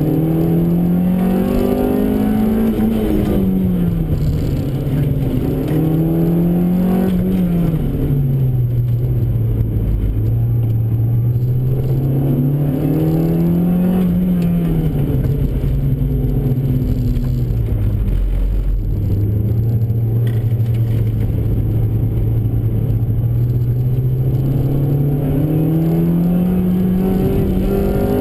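Honda Civic's B16A2 1.6-litre DOHC VTEC four-cylinder engine heard from inside the cabin, pulling hard between corners: its pitch climbs under throttle and drops off as the driver lifts or shifts, about four times over.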